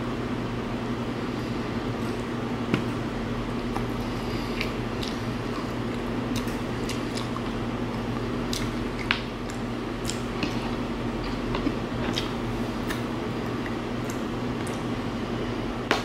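Close-up wet chewing, biting and lip-smacking while eating boiled chicken, with scattered small sticky mouth clicks over a steady low hum.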